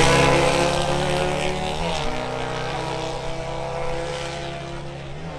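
Motorcycle engine running with a steady pitch that steps down about two seconds in and again near the end, fading gradually.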